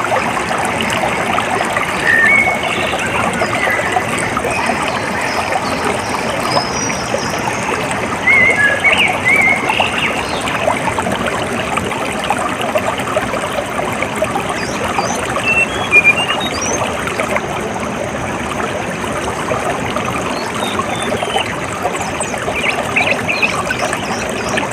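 Water trickling and running steadily like a small stream, with short bird chirps now and then over it.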